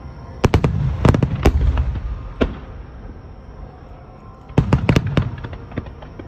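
Aerial fireworks shells bursting in two volleys of rapid, sharp bangs with deep rumble under them, the first starting about half a second in and lasting about two seconds, the second starting about four and a half seconds in.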